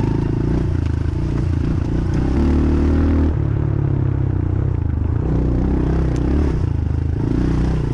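Dirt bike engine running on a trail under changing throttle, its pitch stepping up and down. It is held highest and loudest from about two to three seconds in, then backs off.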